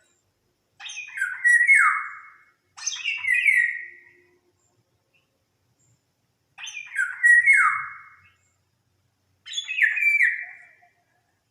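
A bird calling four times with pauses between. Each call is a quick run of sharp notes, then a harsh note that slides down in pitch, about a second and a half long.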